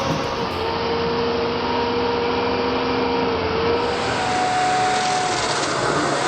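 Heavy machinery running steadily: engine noise with a steady whine, which shifts higher about four seconds in.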